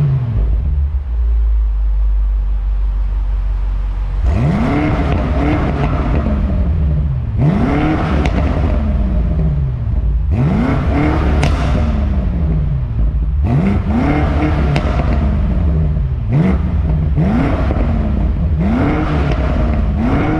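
BMW F90 M5's twin-turbo V8 on its factory exhaust, settling to idle and then revved about eight times, each rev climbing quickly and falling back more slowly, the later ones coming closer together.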